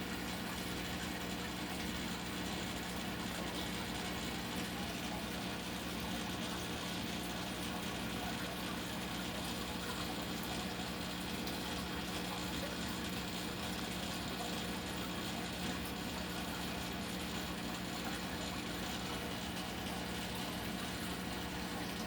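Steady, unchanging mechanical hum with an even hiss over it, like a pump or ventilation unit running.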